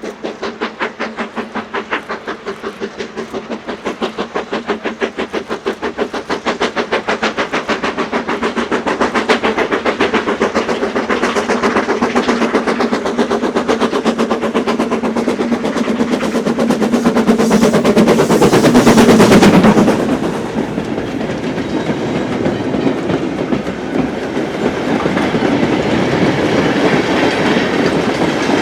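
BR Standard Class 9F 2-10-0 steam locomotive 92214 working a mixed goods train past, its rapid, even exhaust beats growing louder as it approaches. It is loudest as the engine passes near the end of the second third. The beats then drop away suddenly, leaving the wagons clattering over the rail joints.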